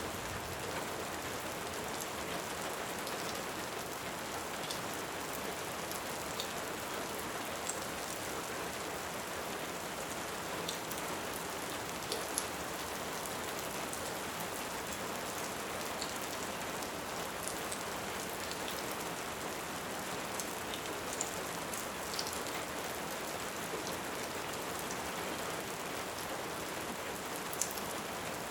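Steady rain falling, with scattered small sharp crackles from a wood fire.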